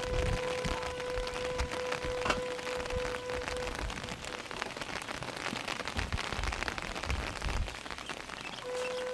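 Rain falling and pattering on a surface, with many small drop ticks. A steady single tone runs through the first few seconds, stops, and comes back near the end, and there is one sharper tick a little over two seconds in.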